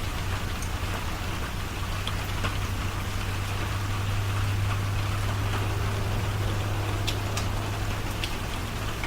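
Steady rain with scattered drop ticks, over a continuous low hum.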